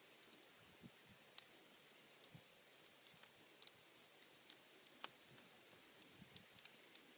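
Faint, irregular crackling clicks of backing paper being peeled slowly off a vinyl decal, a few sharper than the rest, over near-silent room tone.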